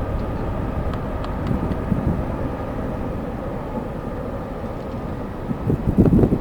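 Steady low rumble of jet airliner engines with a faint whine over it, and a gust of wind buffeting the microphone near the end.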